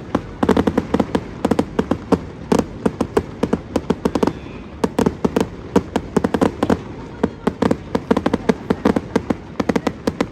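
Fireworks going off in a rapid, irregular string of sharp pops and bangs, several a second, with brief lulls.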